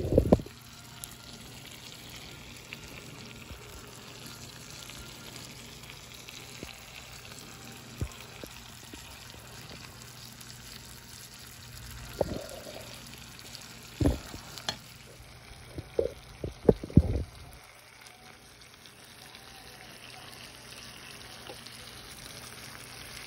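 Shrimp frying in garlic-lemon butter sauce in a skillet, a steady sizzle. A few short knocks from stirring come at the start, about a third and halfway through, and in a quick cluster about three quarters of the way through.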